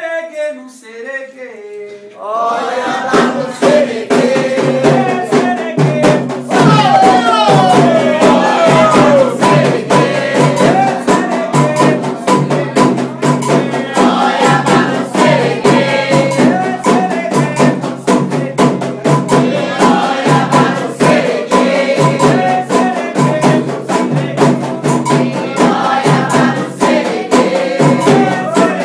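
Candomblé ritual song: group singing to the orixás over steady drumming and a rattle. The singing comes in about two seconds in and carries on.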